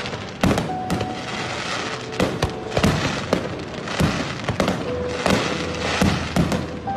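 Aerial fireworks going off: a quick, irregular series of sharp bangs and crackles, more than a dozen in the span, with a haze of crackling between them.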